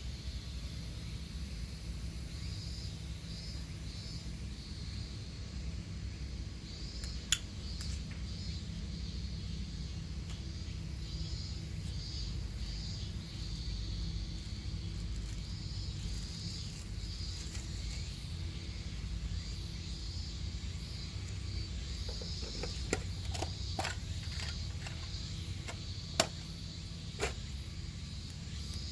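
Outdoor campsite ambience: a steady high chirring, a low rumble underneath, and a few sharp clicks or pops, one about a quarter of the way in and several close together near the end.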